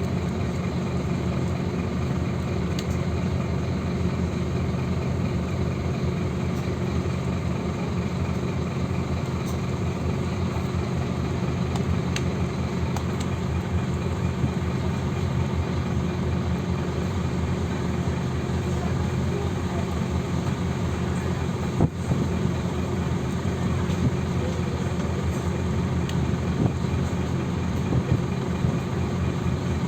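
Scania OmniLink CK270UB city bus's diesel engine running at a steady note, with a single sharp knock about two-thirds of the way through.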